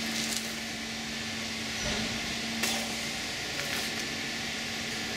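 Steady background hiss with a constant low hum, and no distinct events.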